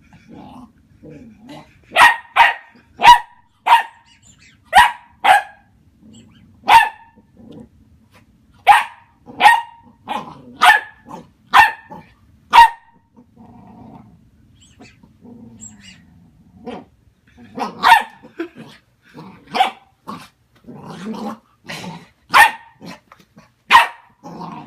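A puppy barking over and over in short, sharp, high barks that come in quick runs, with low growling between the runs.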